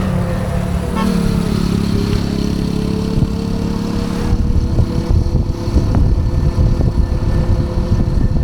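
Ride noise on an Ola S1 Pro Gen 2 electric scooter: wind buffeting the microphone, with a thin steady whine from the scooter that dips in pitch about a second in and climbs back by about three seconds.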